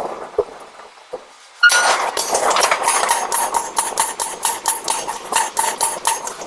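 Hammer striking hot iron during forging: a few scattered light clinks, then, about a second and a half in, a sudden, loud, fast run of metallic blows with a ringing tone that goes on to the end.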